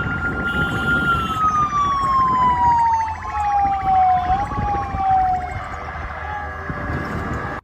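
A siren wailing: its tone holds high for about a second, then slides slowly down and fades out about five seconds in, over steady background noise.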